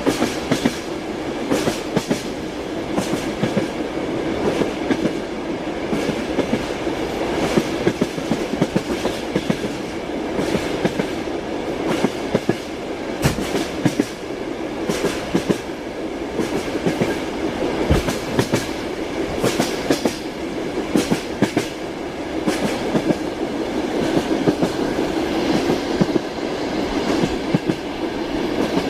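Train wheels clacking over rail joints, a steady running rumble of the moving train with frequent sharp, irregular knocks.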